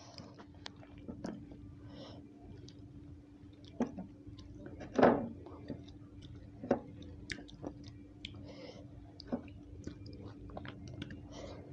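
Close-up chewing and crunching of raw vegetables, with scattered wet mouth clicks and a few sharper bites, the loudest about five seconds in. A faint steady hum runs underneath.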